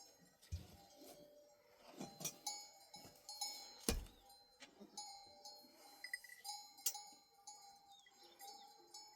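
Bells on a herd of goats and sheep clinking and ringing irregularly as the animals move.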